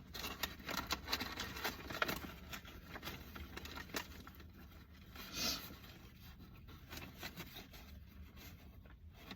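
Rustling and light scraping of things being handled at close range, with many small clicks; busiest in the first two seconds, with a brief louder rustle about five and a half seconds in.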